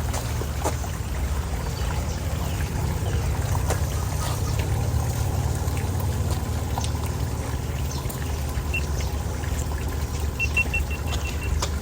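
Floodwater pouring steadily down a cleared street storm drain, with scattered small knocks. A quick run of short high beeps near the end.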